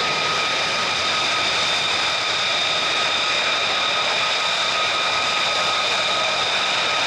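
Military jet engine running steadily with a high, constant whine over a broad rush.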